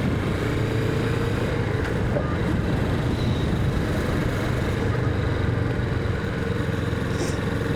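Kawasaki Vulcan 650's parallel-twin engine running steadily while the motorcycle cruises, with a steady hiss of wind and road noise.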